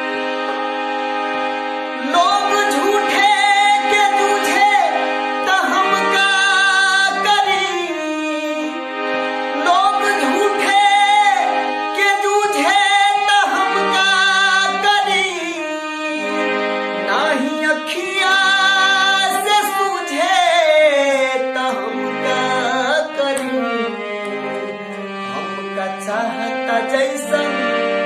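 A young singer's voice carrying a wavering, ornamented Indian melody over the steady held chords of a harmonium, with tabla. The voice comes in about two seconds in, over the harmonium.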